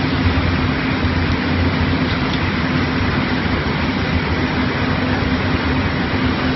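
Steady din of heavy diesel machinery, fire-truck pumps and excavators running, with a constant low hum under an even hiss.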